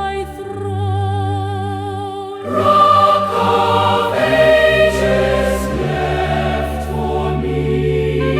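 Choral hymn music: a held, sustained accompaniment, joined about two and a half seconds in by a fuller, louder choir sound that carries on.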